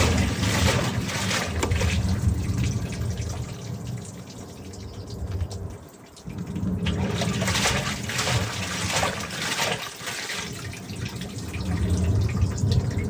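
Miele washing machine running with water in it: water sloshing and running over a low machine hum. The sound dips sharply about six seconds in and briefly again near ten seconds.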